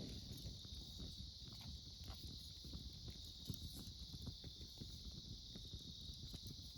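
Wood campfire crackling with small, irregular pops and ticks, over a steady high-pitched chorus of autumn insects.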